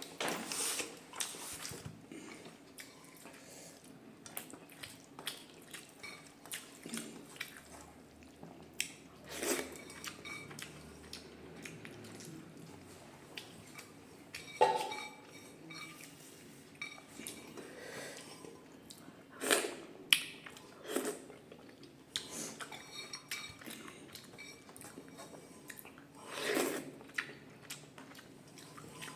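Dishes and cutlery clinking and scraping on a plate now and then while a meal is eaten, with a few louder sharp clinks scattered among softer clicks.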